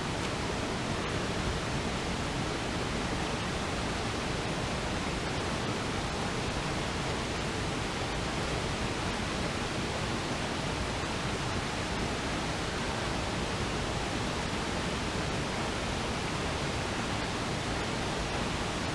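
Steady, even rush of fast-flowing water from a waterfall on a rain-swollen river, with no change throughout.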